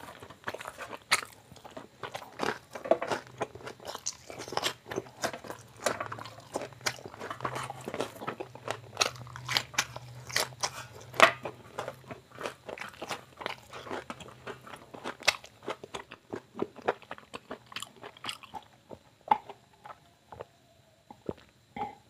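A person chewing and crunching raw onion slices and fried chicken up close, with many sharp crunches in quick succession that thin out and grow quieter over the last few seconds.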